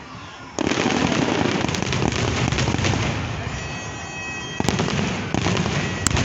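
New Year fireworks display going off: a sudden loud burst about half a second in, then continuous crackling and booming, with sharp bangs near the middle and near the end.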